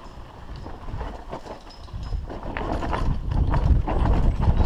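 Mountain bike rattling and knocking over a rough forest trail, with the tyres' rumble growing louder about two seconds in.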